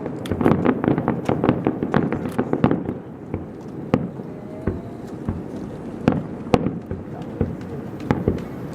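Festival fireworks going off: a rapid string of bangs and crackles for about three seconds, then single booms every second or two.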